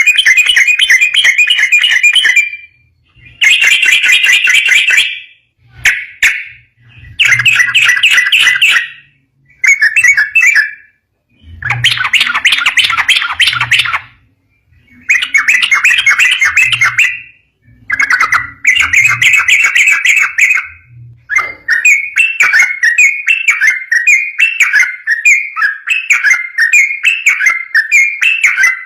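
Sooty-headed bulbul (trucukan) singing loud song phrases of one to three seconds with short pauses between them. Near the end the song runs on without a break as a string of quick repeated notes.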